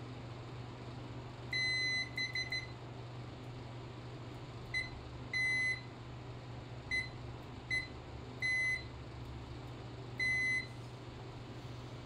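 Multimeter continuity beeper sounding in irregular beeps, some held about half a second and some short in quick runs, as the probes make and break contact across the trigger switch. A steady low hum runs underneath.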